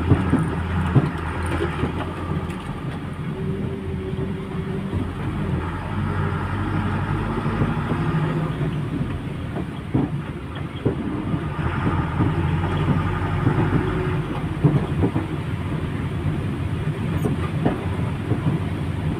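A lorry on the move, heard from inside the cab: a steady diesel engine and road rumble with scattered rattles and clicks.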